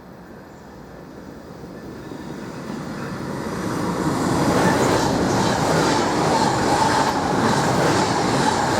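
An S-Bahn electric multiple-unit train approaches and runs past, growing steadily louder over the first few seconds. From about halfway through, a steady whining tone sits over the rushing noise.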